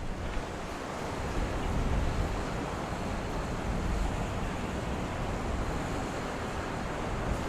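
Steady rushing wind and road noise from a moving car, with wind buffeting the microphone.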